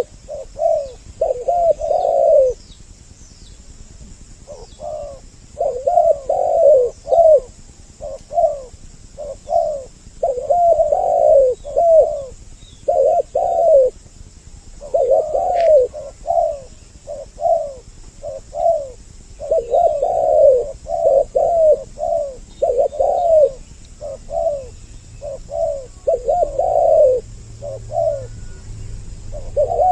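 Spotted doves (tekukur) cooing over and over in rhythmic phrases of rounded notes, with short pauses between phrases. It is a double-voice lure recording, male and female calling together. Faint chirps of small birds sound high in the background.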